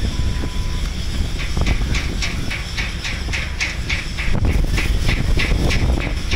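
Strong wind rumbling on the microphone. From just over a second in, a rapid, even chirping pulses about four to five times a second.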